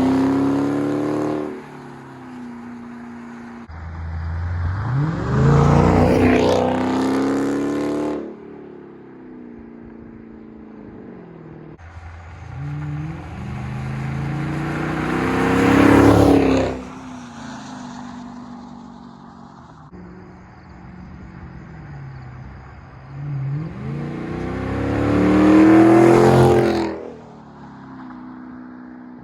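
A Dodge SRT's engine and exhaust, with the mid muffler deleted or stock, idling and being revved about four times. Each rev climbs in pitch to a loud peak and drops back to a steady idle.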